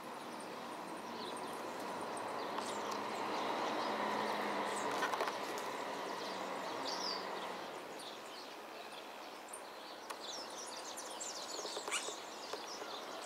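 Small birds chirping and twittering in short, high calls over a steady background rush. The rush swells a few seconds in and eases off, and the chirps come thickest near the end.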